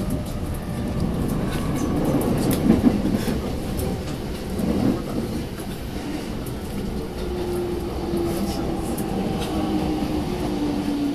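A commuter train running, heard from inside the carriage: a steady rumble of wheels on track with scattered faint clicks. A faint low whine, falling slightly in pitch, comes in over the last few seconds.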